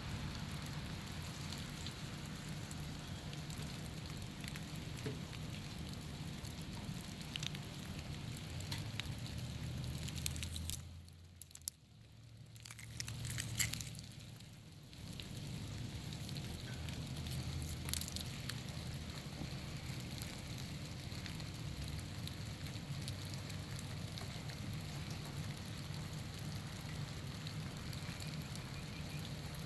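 Outdoor ambience after an ice storm: a steady patter with many small scattered ticks, over a low rumble of wind on the microphone. The whole sound drops away briefly about eleven seconds in, then returns.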